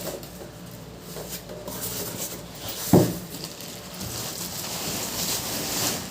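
Packaging being pulled and handled while unboxing a washing machine: scattered rustling and scraping, with one sharp thump about three seconds in.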